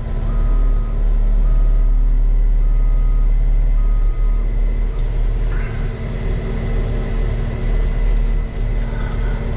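Caterpillar 289D3 skid steer's diesel engine running steadily, with a backup alarm beeping repeatedly for about the first four seconds before it stops.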